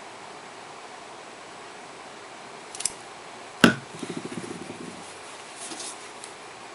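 Small hard tools handled on a tabletop: a few light clicks, one sharp click, then a quick rattling scrape lasting about a second, over steady room hiss.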